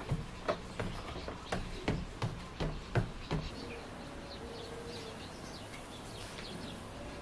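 A run of irregular light knocks and clicks, about two or three a second, stopping after about three and a half seconds, followed by faint short bird chirps over a low steady hum.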